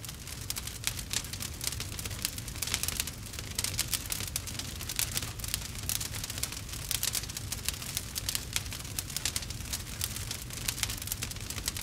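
Campfire burning, with continuous dense crackling and frequent sharp pops over a low steady rumble.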